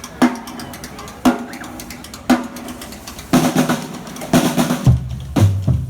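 Tabal drums of a carnival drum troupe beating a slow, steady stroke about once a second, then breaking into a faster, busier rhythm a little past halfway, with low bass notes joining near the end.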